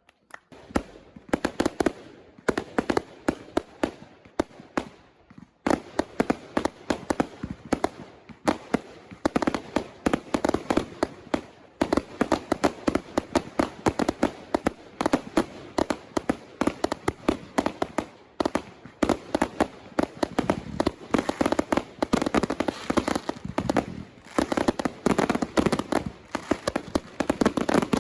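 Retail consumer fireworks firing a dense, rapid barrage of bangs and crackling reports, with a brief lull about six seconds in.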